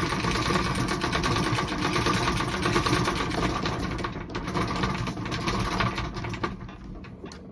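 Dense, rapid mechanical clatter over a steady hum, fading away about six and a half seconds in.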